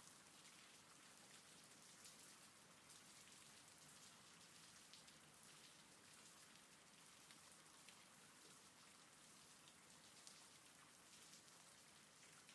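Faint steady rain: an even hiss with scattered small drop sounds.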